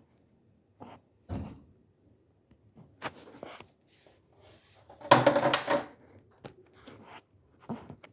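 Scattered knocks and clatter of objects being handled, a few separate bumps and one louder cluster of clattering about five seconds in.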